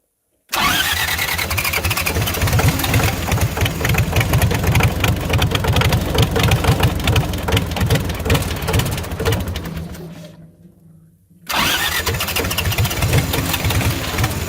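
Diesel generator engine cranking and firing, running loud right after a glow-plug preheat. About ten seconds in it fades away, then comes back suddenly a second or so later.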